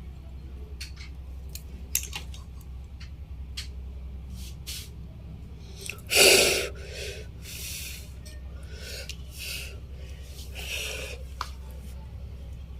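Several sharp breath noises, the loudest about six seconds in and three or four softer ones after it. A few small clicks of handling come earlier, over a steady low electrical hum.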